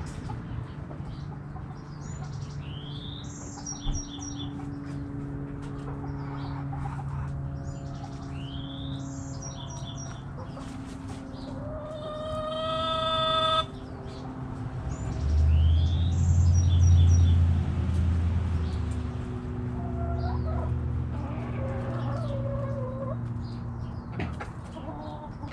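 Backyard chickens: a rooster crows once about halfway through, a long rising call that cuts off sharply. Hens murmur and cluck low underneath throughout. A small bird's short, high chirping phrase repeats three times.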